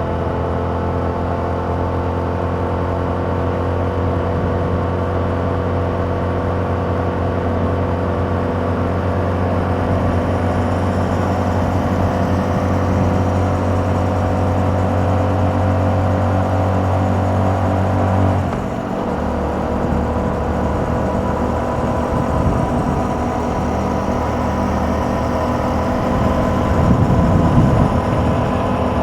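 2021 Yamaha MT-07's 689 cc parallel-twin engine running through its original exhaust while riding, holding a steady note; about two-thirds of the way in the sound briefly dips and the engine note settles lower in pitch.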